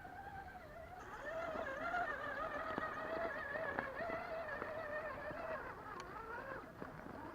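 1/10-scale RC crawler's electric motor and gear drivetrain whining, the pitch wavering up and down as the throttle is worked, louder from about a second in, with scattered light clicks.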